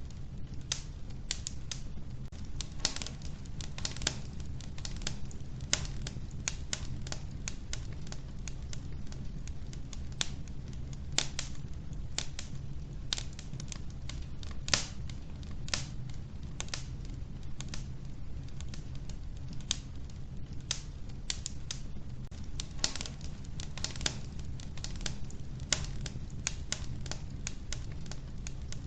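Wood fire burning in a wood-burning stove, logs crackling and popping in quick, irregular snaps over a low, steady rumble of the flames.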